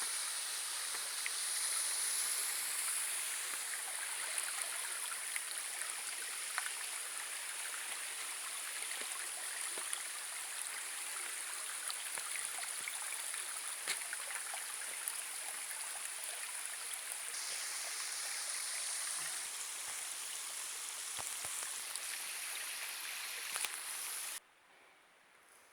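Rushing water running steadily, a continuous hiss. It cuts off suddenly about a second before the end.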